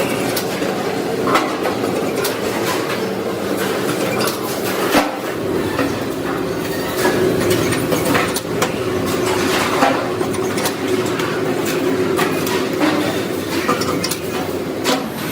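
Factory machinery running steadily with a hum, broken by frequent sharp metal clanks and clicks.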